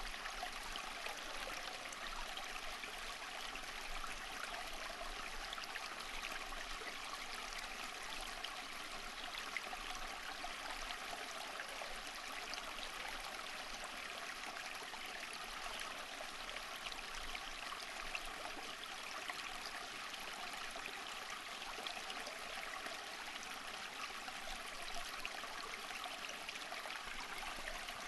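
A stream of running water, a steady babble and trickle with small splashes throughout.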